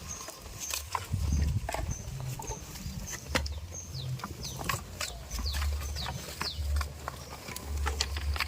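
Farmyard animal sounds: many short, high chirps that fall in pitch, scattered clicks, and bursts of low rumbling.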